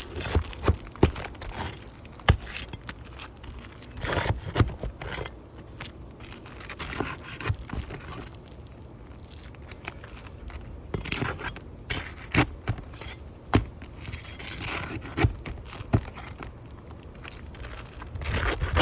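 Metal tool prying and scraping at roof shingles, with irregular sharp clicks and clinks as a damaged shingle and its nails are worked loose, and stretches of scraping a few times.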